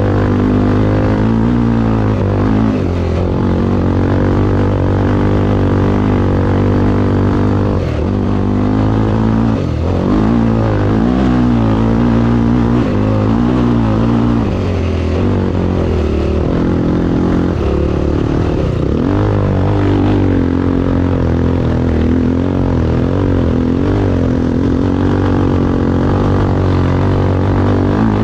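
Motorcycle engine running hard, its pitch rising and falling continually as the throttle is worked.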